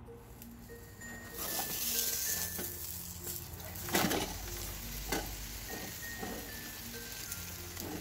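Filled pastry of thin dough sheets sizzling as it fries in a nonstick frying pan, the hiss rising about a second and a half in. A sharp knock about four seconds in as the pastry is turned over into the pan, with a smaller one a second later.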